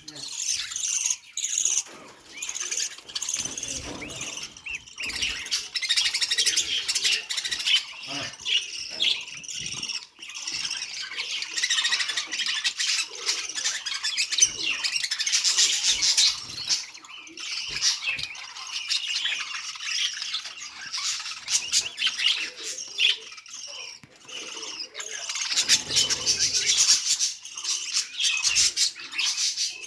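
Budgerigar chirping and warbling, a continual stream of rapid high chirps and chatter, with short clicks here and there.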